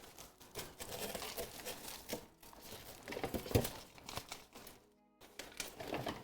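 Packaging crinkling and rustling in quick irregular crackles as kitchen items are handled, pausing briefly about five seconds in, over faint background music.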